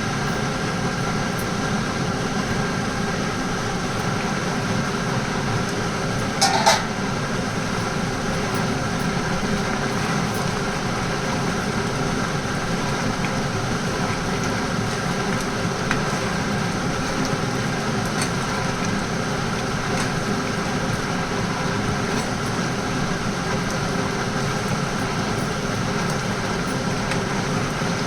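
A steady machine hum with several fixed tones over an even rushing noise, unchanging throughout. A short clink about six and a half seconds in.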